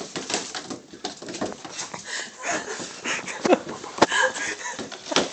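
A cat moving about with a box stuck on its head: scuffs and knocks of the box, with a few short animal cries.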